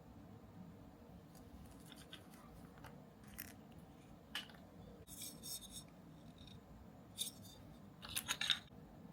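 Small clicks, taps and brief rustles from handling the small parts of an R/C truck kit, scattered and irregular, with the loudest cluster of clicks near the end.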